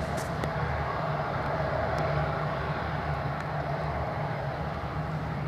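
Steady low rumble of a jet airliner's engines, an Airbus A320, with a constant hum and no sharp changes.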